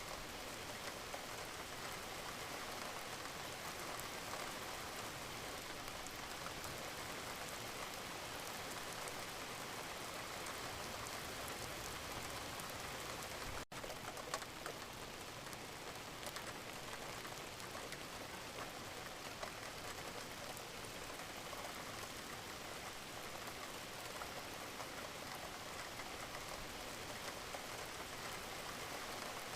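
Wood fire crackling steadily in a fireplace: a continuous hiss with dense small pops and snaps, broken by a momentary drop-out about fourteen seconds in.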